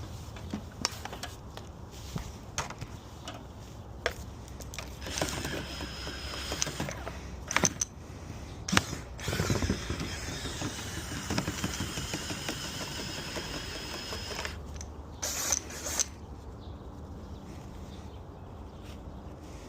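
Scattered clicks, knocks and scraping from tools working packed bird-nest material out of a clogged dryer vent duct.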